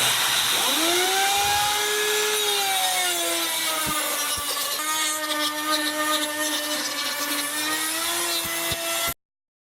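Shop vac running for dust collection at a router table, with a second motor, the router's, spinning up from about a second in and then running at speed as a steady whine. It all cuts off suddenly near the end.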